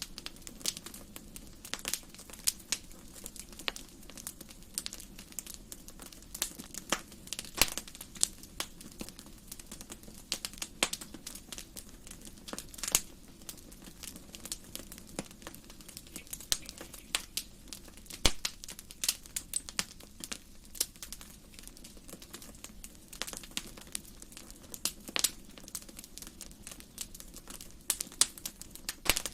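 Wood fire crackling: irregular sharp pops and snaps from the burning logs over a faint steady hiss of the flames.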